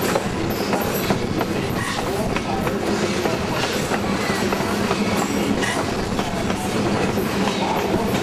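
Passenger coach of a heritage steam train rolling along the track: a steady rumble of wheels on rails, with scattered clicks from the rail joints.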